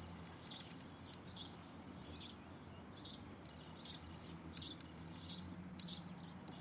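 A bird calling over and over, one short high call a little under once a second, with a faint low steady hum beneath.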